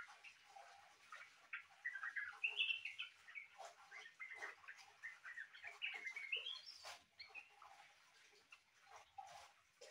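Trucukan (yellow-vented bulbul) singing a quick run of varied chirping, warbling notes, a song likened to a cucak ijo's (greater green leafbird). It grows sparse after about seven seconds, with a sharp click there.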